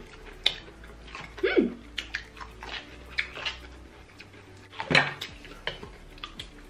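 Close-miked eating sounds: wet smacks and chewing clicks as corn on the cob is bitten and chewed, the loudest smack about five seconds in. A short falling vocal sound comes about a second and a half in.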